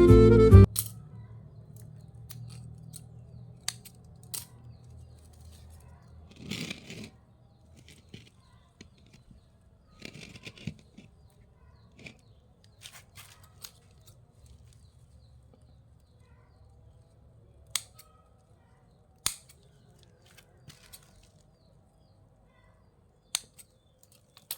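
Pruning shears snipping plant stems: scattered sharp snips, with a couple of brief rustles of foliage between them.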